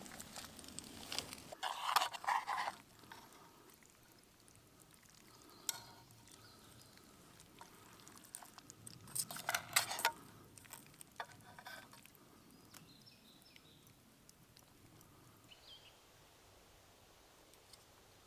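Cooking pot and utensils being handled, with scattered clinks and knocks in short clusters, the loudest about two seconds in and around ten seconds in, and quieter handling between.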